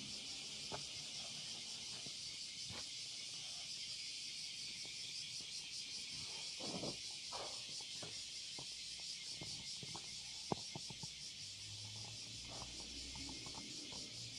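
Small hot-water Stirling engine, with an aluminium cylinder and a graphite-epoxy piston, running: a steady high-pitched whir with a fast, even pulse, and scattered light clicks.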